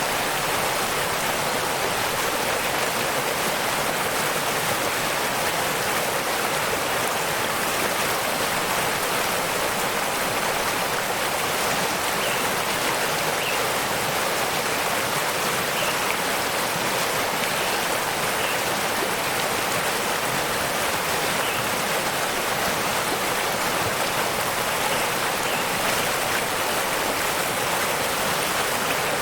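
Waterfall water rushing in a steady, unbroken hiss that neither rises nor falls.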